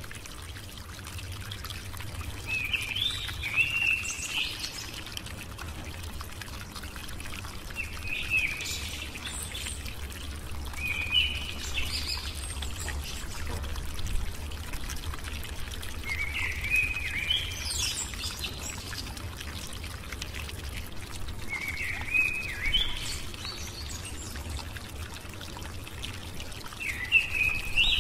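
Bird chirping in short phrases about every five seconds, over a steady low hum and hiss.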